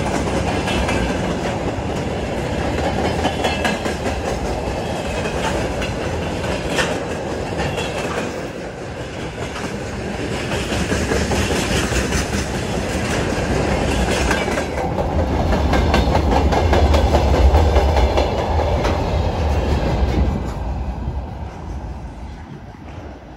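Freight train wagons rolling past at speed: a steady rumble with wheels clicking over the rail joints. The sound fades away near the end as the last wagon pulls off.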